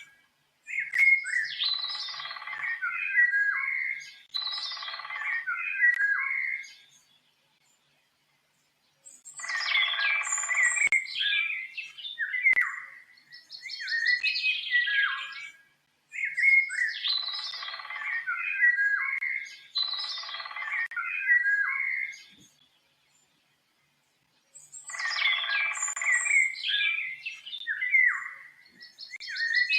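A songbird singing warbling, chirping phrases of about three seconds each, in runs of three separated by short pauses. The same sequence of phrases repeats about every fifteen seconds, as a looped recording.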